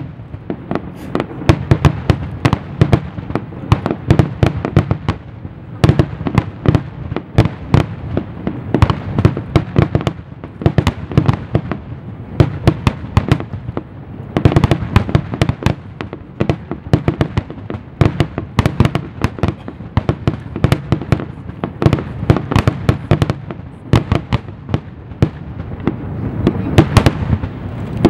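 Fireworks display: a continuous barrage of aerial shell bursts and crackle, many sharp bangs a second with no pause.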